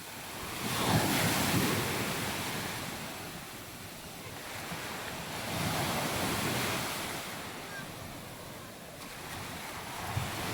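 Surf on a sandy beach: small waves break and wash up in two surges about five seconds apart, with wind rumbling on the microphone.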